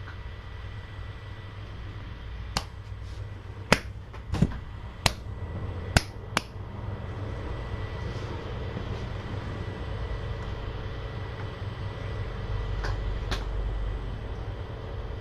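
A steady low hum with a handful of sharp clicks and knocks over it, about six of them clustered a few seconds in and one more later.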